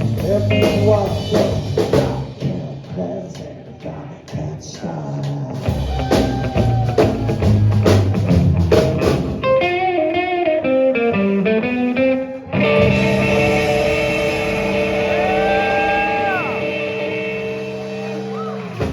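Live rockabilly band with electric guitar and drum kit playing the end of a song. A descending run of notes comes about ten seconds in, then a final chord is held and rings out, slowly fading, with a few sliding notes over it.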